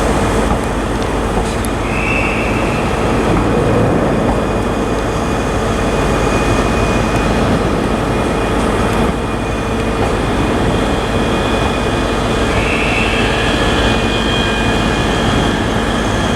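A pair of Class 385 electric multiple units standing at the platform: a steady loud hum and high whine from the train's equipment, with two short high tones, about two seconds in and again near the end.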